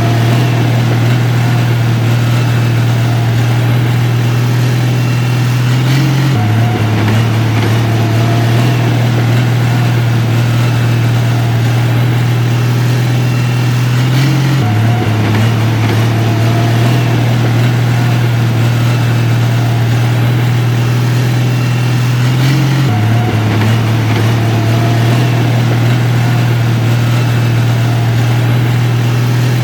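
Heavy diesel engine of a construction machine running steadily with a low drone, shifting slightly in pitch about every eight seconds.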